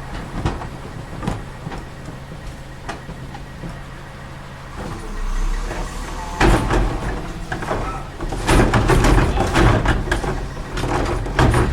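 Split-hopper side-loading garbage truck (CCC LET2 with Heil Multitask body) running steadily. About six seconds in a loud clattering and banging starts, with a louder stretch of clatter a couple of seconds later, typical of the truck's collection work.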